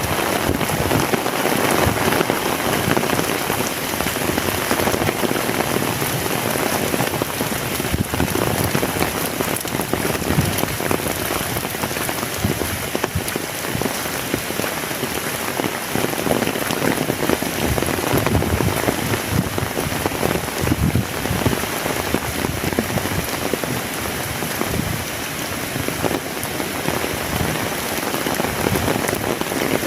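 Heavy rain pouring steadily, a dense hiss of drops spattering on nearby surfaces.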